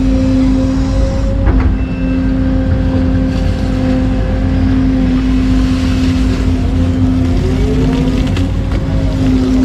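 Excavator diesel engine and hydraulics running steadily with a constant whine. The pitch rises briefly near the end, and there is a short knock about a second and a half in.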